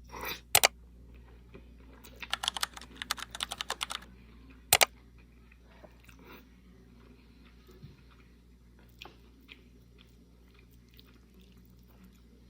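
Close-up eating sounds: a mouthful of pasta topped with crispy potato sticks being chewed, with a quick run of crisp crunches for about two seconds, one sharp click a little later, then quieter chewing.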